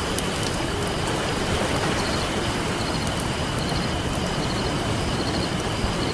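Ocean surf washing steadily, with a wood campfire crackling: a few sharp pops and snaps scattered over the noise.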